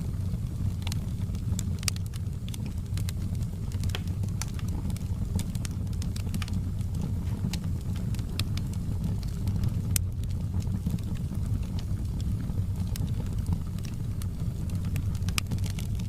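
Wood fire crackling in a fireplace: a steady low rumble of burning with scattered sharp pops and crackles, the loudest pop about ten seconds in.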